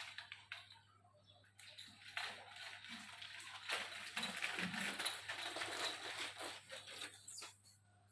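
Leaves and twigs rustling and crackling, loudest through the middle and dying away near the end.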